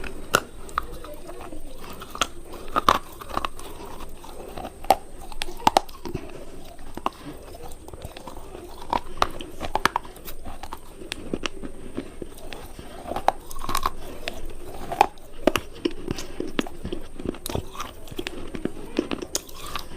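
Hard coloured cubes being bitten and chewed close to the microphone: a run of sharp, irregular crunches, several in quick succession at times, with softer chewing between them.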